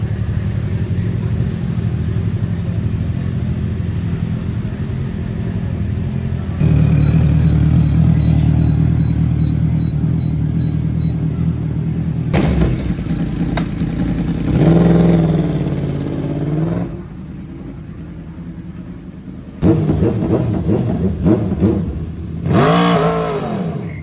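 Superbike engines running and revving, in several stretches that start and stop abruptly. The revs rise and fall sharply in the middle and again near the end.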